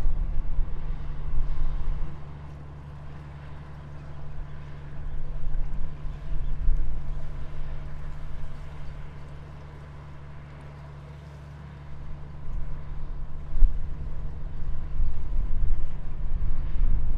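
A boat's engine running steadily with a low hum, under a louder low rumble of wind or water that comes and goes.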